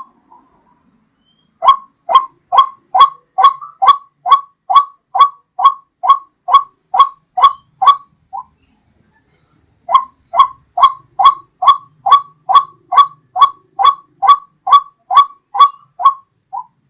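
White-breasted waterhen (ruak-ruak) lure call: loud, harsh notes repeated steadily about two to three times a second, in two long runs broken by a pause of a second or two.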